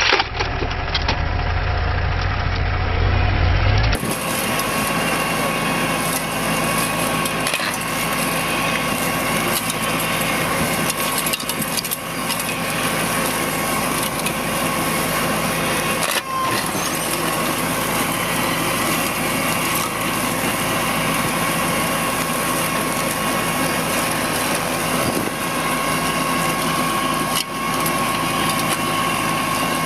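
Machinery running steadily with a dense grinding noise and a held whine. The sound changes abruptly about four seconds in.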